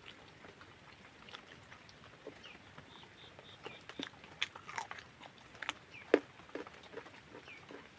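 Close-up eating sounds: wet chewing and lip smacking, with scattered sharp clicks that come thicker in the second half. The loudest click, about six seconds in, is a bite into a chunk of boiled papaya.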